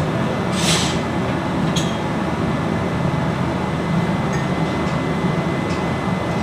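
Steady machinery drone with a constant high whine. A short burst of hiss comes just under a second in, and a light click follows about two seconds in.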